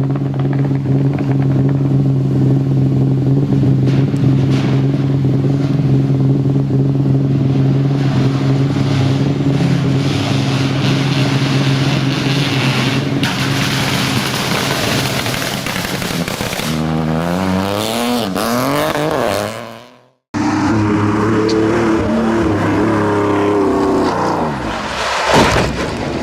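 Rally car engine running hard at steady revs, then revving up and down through gear changes before it cuts off suddenly; after a moment of silence, a rally car engine is heard running again.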